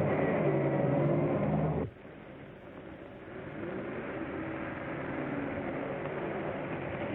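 Car engine running, cut off abruptly about two seconds in, followed by a quieter engine sound that builds up and holds steady.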